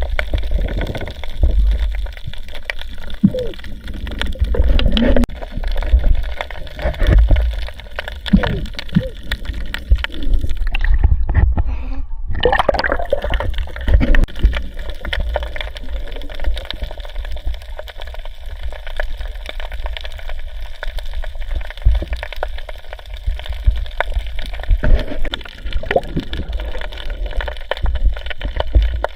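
Water sloshing and gurgling close to a diver's camera, with a constant low rumble of moving water and irregular splashes throughout.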